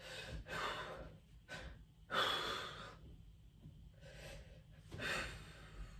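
A man breathing audibly, a series of short breaths in and out, the loudest about two seconds in.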